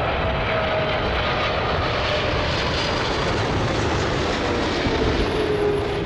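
Jet airliner's engines running on a landing approach in strong crosswinds: a steady rush with a faint whine that slowly falls in pitch.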